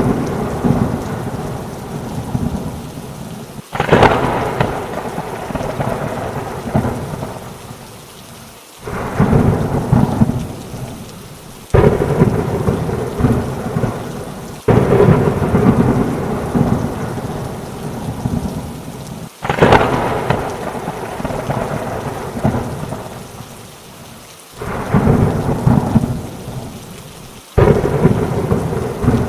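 Rain falling steadily with repeated peals of thunder. About seven rumbles break in suddenly, three to five seconds apart, and each dies away before the next.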